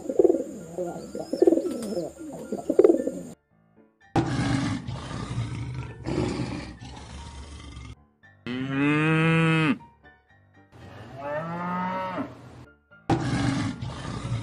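Rock pigeons cooing for about three seconds. After a short break, lions call: low rough grunts, then two long roaring calls that fall in pitch, the first of them the loudest, and more grunting near the end.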